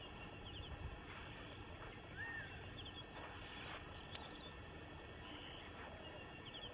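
Quiet outdoor ambience: faint birds chirping now and then, in short high chirps, with one rising-and-falling call a little over two seconds in, over a low steady rumble.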